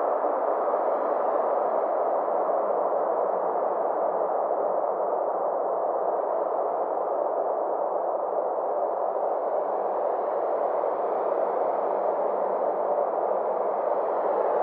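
Synthesized space ambience: a steady, even rushing drone centred in the middle range, with faint tones slowly sweeping up and down above it.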